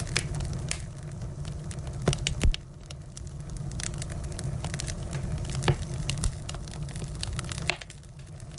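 Firewood burning and crackling, with irregular sharp pops over a steady low rumble. The loudest pops come about two seconds in and again just before the middle.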